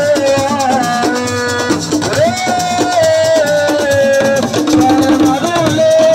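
Assiko band music: a shaker rattling fast over drums, with a lead melody line that holds long notes and slides between them.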